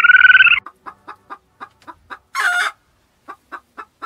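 Fowl clucking: a run of short clucks about four a second, broken by one louder, harsh call about two and a half seconds in. It opens with a short, loud pitched note.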